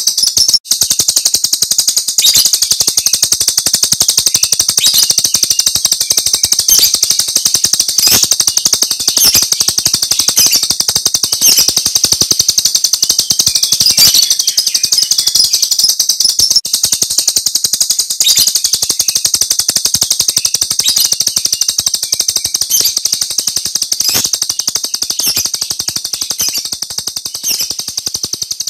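Jalak Rio starling giving its 'tembakan' call: a rapid, dense rattle of high notes repeated without pause, with a brief break about half a second in.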